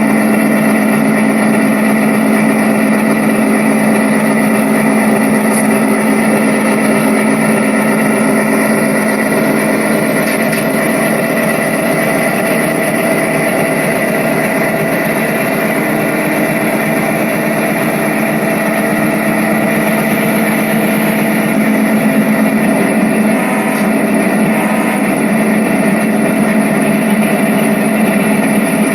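Diesel locomotive engine sound running steadily, a constant low hum with an even drone above it.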